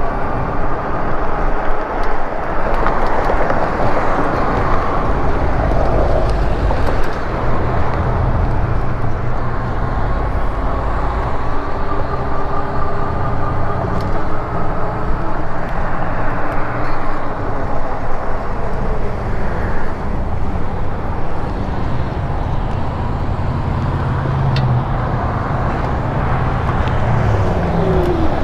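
Road traffic passing, cars and their tyres rising and falling in pitch as they go by, over a steady low wind rumble on the microphone from riding an e-bike.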